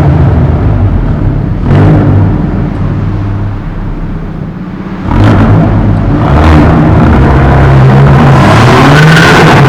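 Hyundai i30 N's turbocharged 2.0-litre four-cylinder engine and exhaust being revved, with short sharp bursts about two seconds in, around five and six and a half seconds in, and near the end. The engine note eases off between about two and five seconds in, then comes back up.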